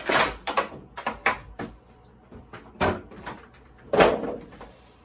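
Unboxing handling sounds as the RC transmitter is taken out of its packaging: several short rustles, scrapes and knocks of plastic and cardboard, the loudest about four seconds in.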